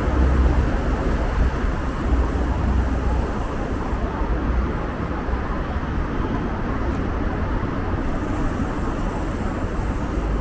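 City street traffic noise, a steady rush of passing vehicles with a low rumble that is strongest in the first few seconds and then eases.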